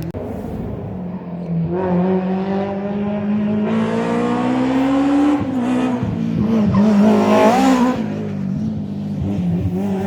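Historic rally car engine accelerating hard: the revs climb steadily for a few seconds, drop sharply about halfway through at a gear change, climb again and fall back near the end as the driver lifts off.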